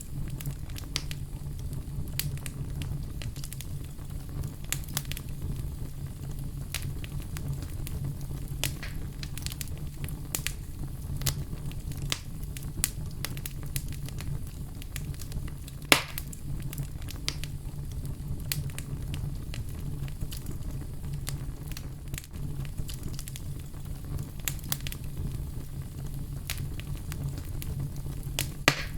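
Wood fire crackling: a steady low rumble of flame with frequent sharp pops and snaps, one louder pop about halfway through.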